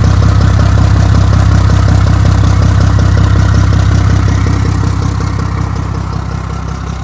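Diesel engine of a 2007 Mack MR688S truck idling, loud and steady, getting somewhat quieter near the end. The idle is not smooth: it has an exhaust leak that the owner puts down to a cracked exhaust manifold.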